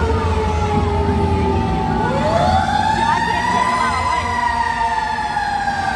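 Fire truck sirens wailing: one tone slowly falling while a second winds up about two seconds in and then slowly falls, over the low rumble of truck engines.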